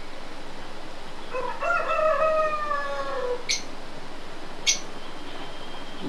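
A bird calling once, one long call of about two seconds whose pitch sags toward the end, followed by two short sharp clicks about a second apart.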